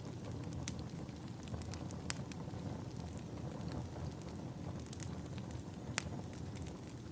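Wood fire burning in a fireplace: a steady low rumble of flames with scattered sharp crackles and pops, the loudest about two seconds in and near the end.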